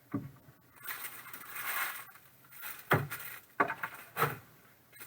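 Trading card packaging being handled: a crinkling tear of wrapper or foil for about a second, with a few short knocks and rustles of cards and box.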